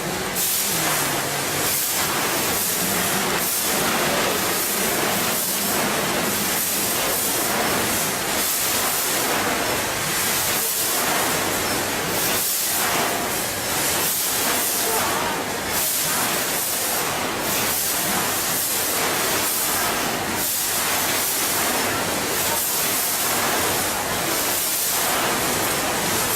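Packaging machine running with a steady hissing noise and faint irregular clicks.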